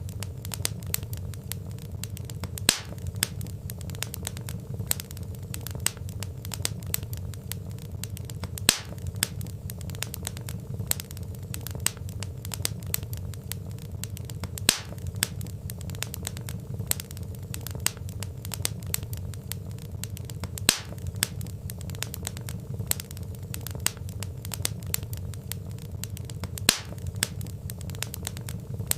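Burning logs crackling steadily: a dense patter of small crackles over a low rumble of flames, with a louder single pop about every six seconds.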